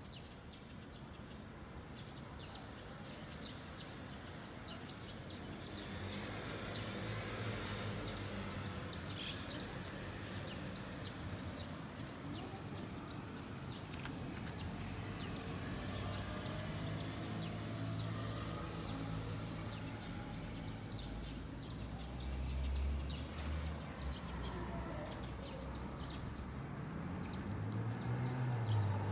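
Small birds chirping repeatedly in the background, with many short high calls throughout. Underneath, a low steady rumble comes in about six seconds in and grows louder near the end.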